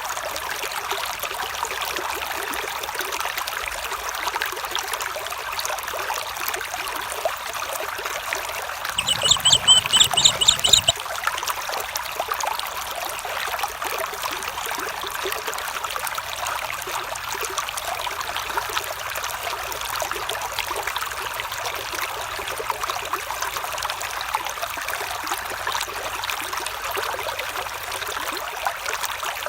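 Water of a small stream trickling and splashing steadily. About nine seconds in, a short, high, rapidly pulsing call sounds for about two seconds.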